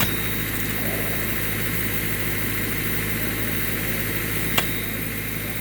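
A steady mechanical drone with a constant low hum and a fixed high whine, as from a running engine-driven machine, and one sharp knock about four and a half seconds in.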